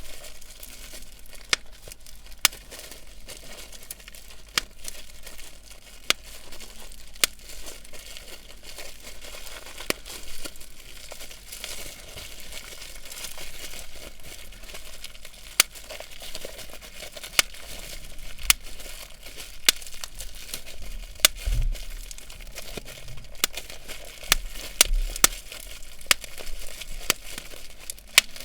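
Plastic bubble wrap being crinkled and popped: sharp single pops at irregular intervals, roughly one every second or two, over constant crinkling.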